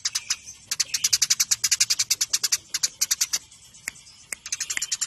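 Eurasian tree sparrows chirping in fast volleys of sharp, high chirps, about ten a second, thinning to a few scattered chirps past the halfway mark and building up again near the end: the rapid, agitated chatter of sparrows fighting.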